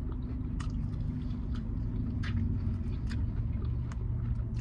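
Close-up chewing and lip-smacking on fried chicken wings, with short wet mouth clicks every half second or so, over the steady low hum of the idling car.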